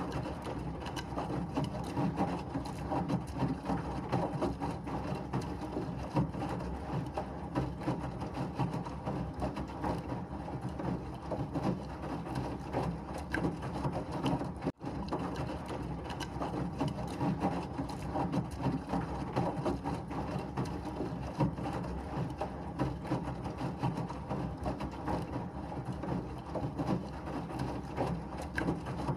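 Washing machine running: a steady churning noise full of fast rattling and clicking, broken by a split-second dropout about halfway through.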